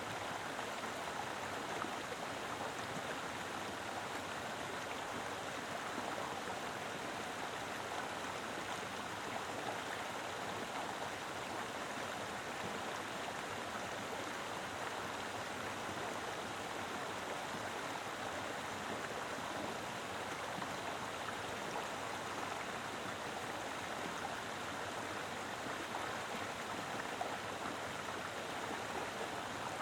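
Mountain river flowing steadily over rocks, a constant rushing water sound with no breaks.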